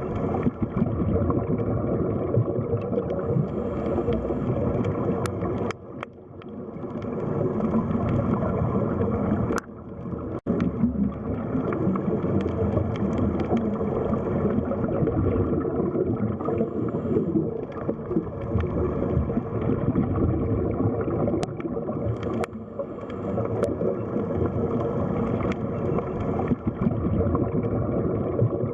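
Underwater ambience: a steady low wash of moving water with gurgling and a faint steady hum underneath, dipping briefly twice.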